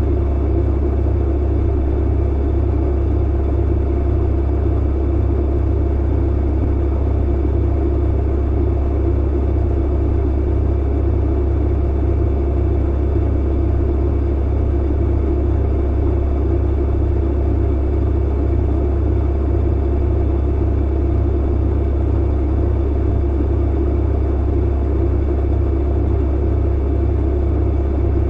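Clothes dryer running: a steady low hum and drone with an even rushing noise above it, unchanging and without distinct knocks or thumps.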